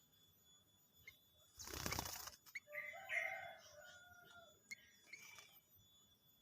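A bird's wings flutter in one short burst about a second and a half in. A bird then calls for about a second and a half, followed by a couple of short chirps.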